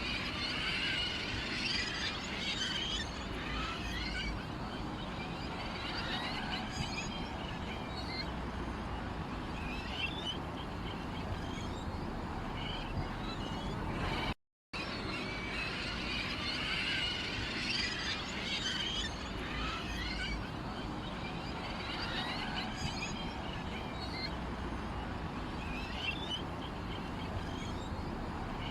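Small songbirds chirping and twittering over a steady background hiss. The same stretch of chirping repeats after a brief break about halfway through.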